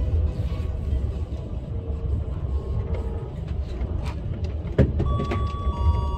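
KTX high-speed train running, heard from inside the carriage: a steady low rumble with a couple of knocks a little past the middle. Several steady high-pitched tones set in about five seconds in.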